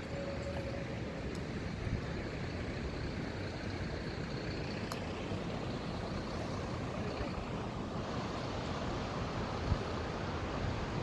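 Steady engine and road noise of a moving vehicle, a low, even rumble.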